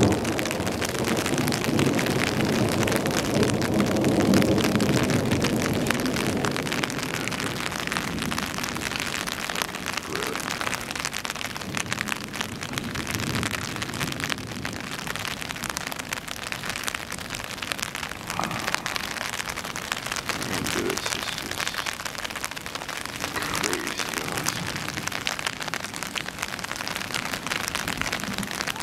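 Steady rain falling. A low rumble of thunder at the start fades out over the first several seconds.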